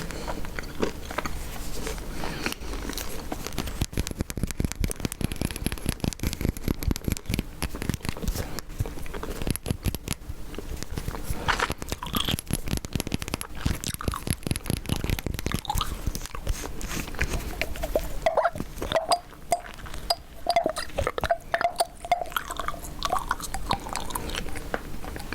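Chewing gum close to the microphone: a dense, rapid run of clicky chewing and mouth sounds.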